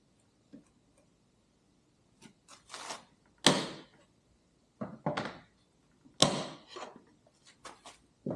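Irregular knocks and clunks of tools and parts being handled and set in place, about a dozen in all, with two louder clunks about three and a half and six seconds in.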